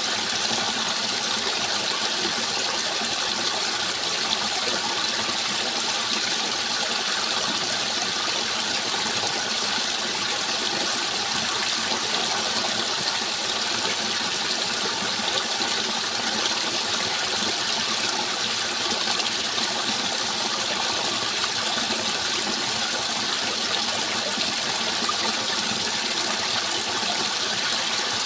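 Flowing water rushing steadily and evenly, with no breaks or separate splashes.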